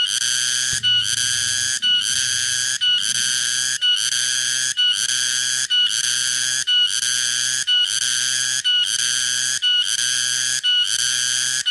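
Tonggeret cicada calling: a shrill, buzzing call repeated in an even rhythm, about one note a second, each note just under a second long with a brief break between.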